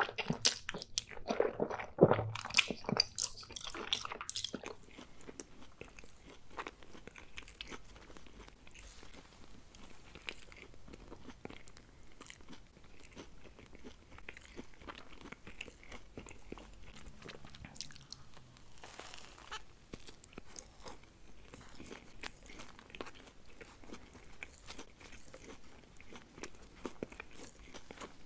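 Close-miked mouth sounds of eating: loud, wet slurping and chewing of thick saucy noodles for the first few seconds, then quieter, steady chewing of a soft burger with small wet clicks and smacks.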